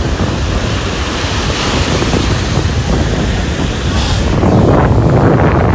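Wind buffeting the microphone over the wash of ocean surf, loud and rough, building slightly toward the end.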